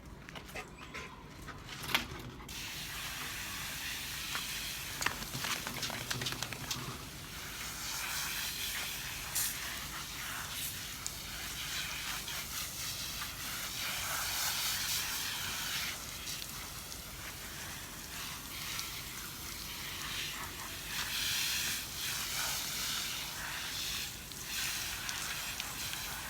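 Water spraying in a steady hiss onto a rottweiler puppy being bathed, swelling and easing as the spray moves, with a few faint clicks in the first seconds.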